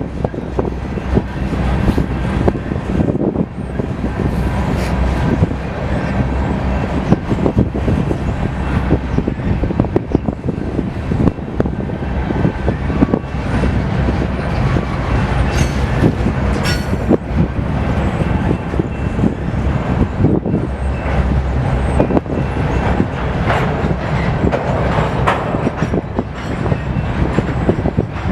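BNSF train rolling past at close range, a steady rumble of its cars with frequent sharp clacks and knocks from the wheels on the rails.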